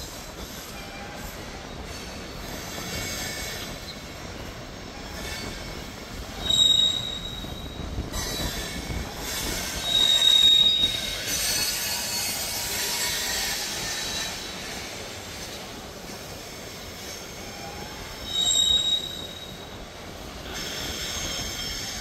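A freight train of hopper cars rolling past: a steady rumble and clatter of wheels on rail, broken three times by short, high-pitched steel wheel squeals. The middle squeal is the longest.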